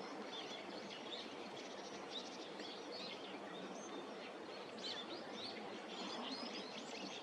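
Small birds chirping and twittering in short, high notes scattered throughout, over a steady background hum of outdoor noise.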